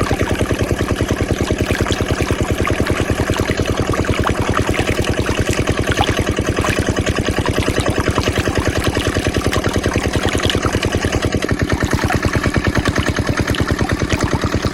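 Small diesel engine driving a water pump, running steadily with a fast, even chugging beat.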